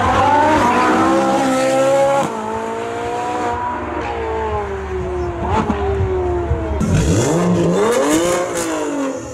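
A high-performance car engine under hard acceleration, its note climbing and then dropping sharply at a gear change about two seconds in, then sinking slowly as the car pulls away. Near the end an engine is revved up and down twice.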